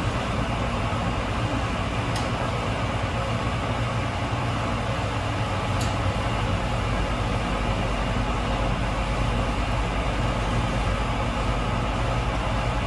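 Wascomat Senior W125 35-pound washing machine running steadily mid-cycle, an even mechanical hum with two faint ticks, about two and six seconds in.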